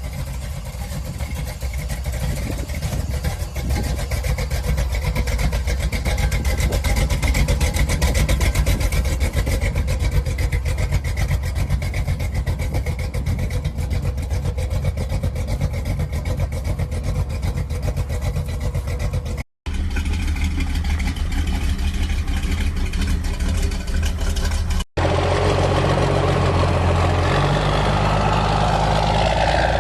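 Old truck engines running, in three clips one after another. The first and longest has fast, even firing pulses; after two abrupt cuts come two shorter clips with a steadier, lower engine note.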